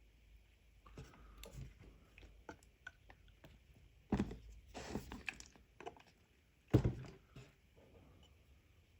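Handling noises from objects being picked up and set down: scattered small clicks and knocks, with two louder thumps about four and seven seconds in.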